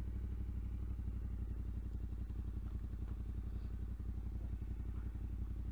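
Yamaha Ténéré 700's parallel-twin engine idling steadily with an even, rapid throb.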